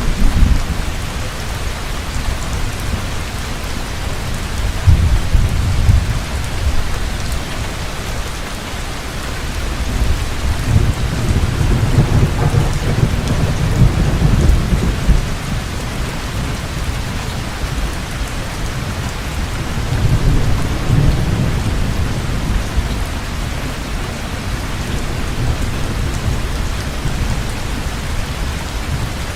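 Heavy rain falling steadily with rolling thunder rumbling low several times: about five seconds in, a longer spell midway, and again about two-thirds of the way through.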